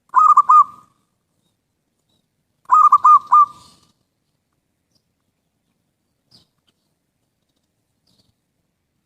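Zebra dove (perkutut) cooing: two short phrases of quick notes, about two and a half seconds apart.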